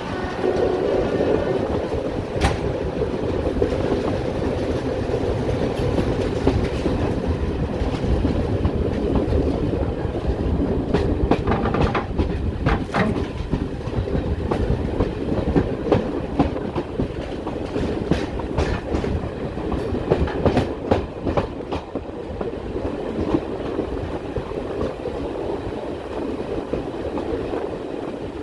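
Diesel-hauled train running along the line with a steady rumble, its wheels clicking over rail joints, most busily in the middle of the stretch.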